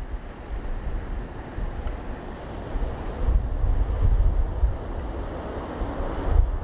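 Wind buffeting the microphone in gusts, over a broad rushing noise that swells through the second half and cuts off suddenly near the end.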